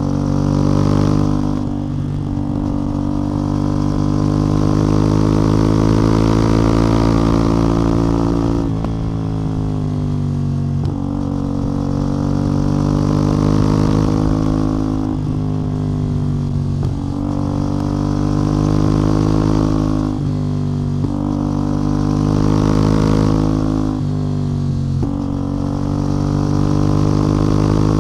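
CF Moto 450MT's 449 cc parallel-twin engine and exhaust under way. The note climbs steadily under throttle, then drops sharply, over and over, as the bike gears and rolls on and off the throttle.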